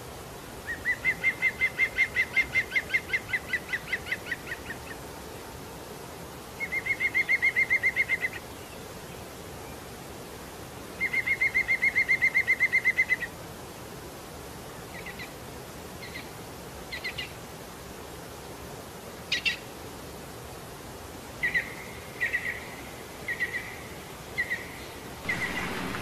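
A bird calling: three rapid trills of quick repeated notes, each lasting a few seconds, followed by a series of short single notes at the same high pitch.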